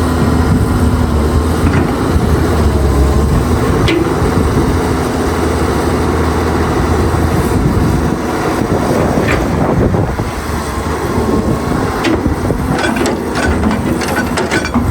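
Excavator's diesel engine running steadily with a low hum, with a quick series of metal clanks and knocks near the end.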